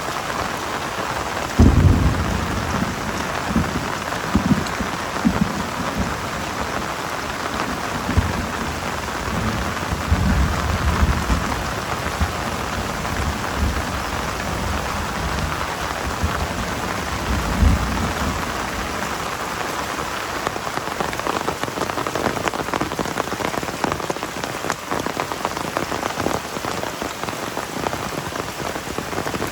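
Heavy rain pouring steadily, with low rumbles several times, the strongest about two seconds in.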